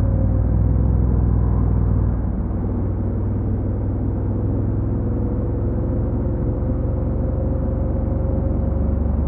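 Honda NC750X's stock parallel-twin engine running, a steady low rumble that eases slightly about two seconds in.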